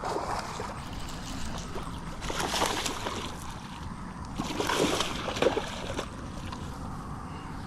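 Water splashing in two surges, about two seconds in and again around five seconds: a hooked bass thrashing at the surface as it is reeled in.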